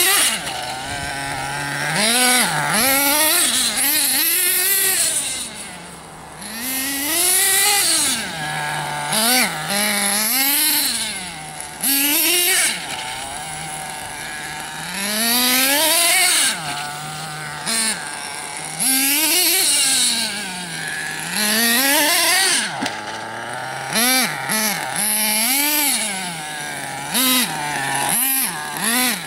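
Radio-controlled car motor revving up and falling back again and again, about a dozen times. Between the revs it settles back to a steady low tone.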